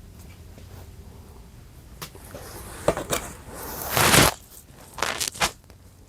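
Rustling and scraping of clothing and boxes being handled: a few short rustles, a louder, longer one about four seconds in, then a couple more.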